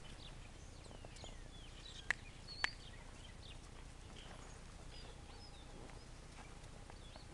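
Faint outdoor background of small birds chirping in short, scattered calls. Two sharp clicks about half a second apart come a little over two seconds in.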